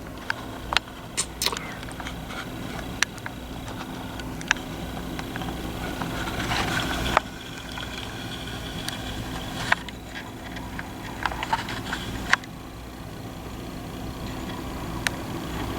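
Steady low machine hum with scattered sharp clicks. Two stretches of louder rushing noise swell and cut off suddenly, about seven and twelve seconds in.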